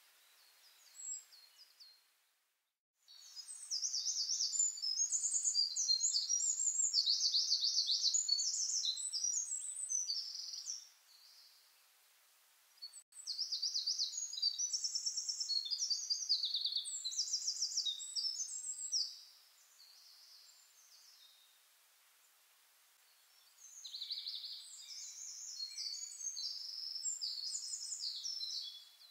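A small songbird singing in three long bouts of rapid, high-pitched chirping notes, with short pauses between them, over a faint hiss.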